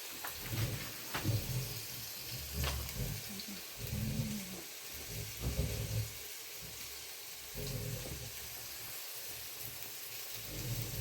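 Wind gusting against the microphone in irregular low rumbles every second or two, over a steady hiss of falling rain or snow.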